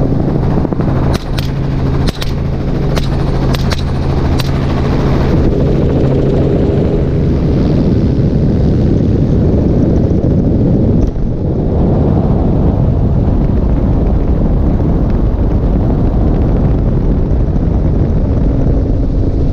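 A string of about nine rifle shots fired from a helicopter, spaced irregularly over the first four or five seconds. The steady noise of the helicopter's rotor and engine runs underneath and continues alone after the shots.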